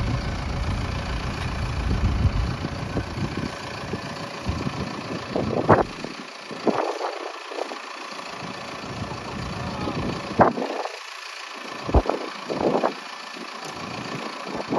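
An engine running steadily, with wind buffeting the microphone in irregular gusts that come and go every second or two through the second half.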